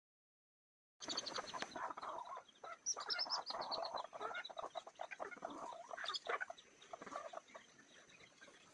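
Chickens clucking and calling in quick, irregular bursts, starting suddenly about a second in, with a faint steady high tone underneath.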